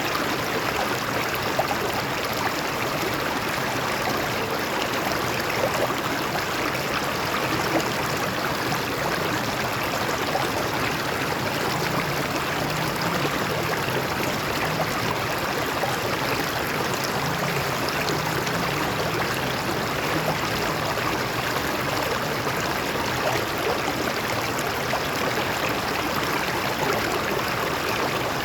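A stream of water running and splashing steadily over rocks.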